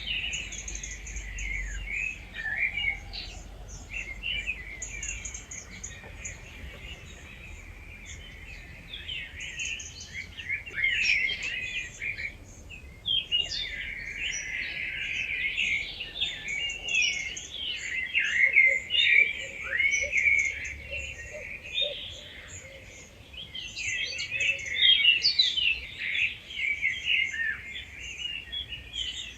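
Dawn chorus: several wild birds singing at once, with a dense overlapping mix of chirps, trills and whistles that swells and thins. Faint low rumble beneath.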